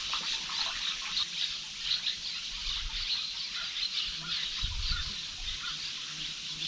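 River ambience heard from a canoe: a steady rippling, trickling hiss of moving water, with scattered faint animal calls and a low thud about five seconds in.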